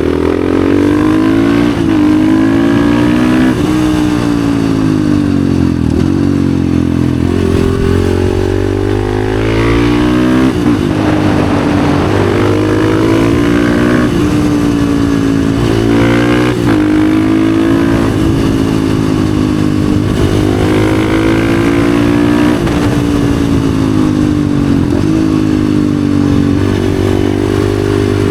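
Husqvarna FE 450's single-cylinder four-stroke engine through an FMF exhaust, under way on the road. The revs climb and fall over and over, with quick drops in pitch between the climbs.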